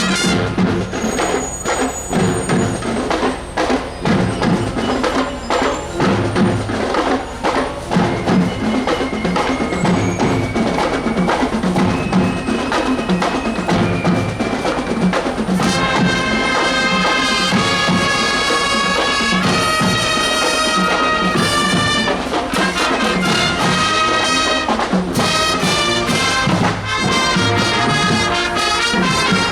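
Marching show band playing. Drums and percussion carry the first half with quick repeated strokes, and about halfway through the brass section comes in with held chords over the percussion.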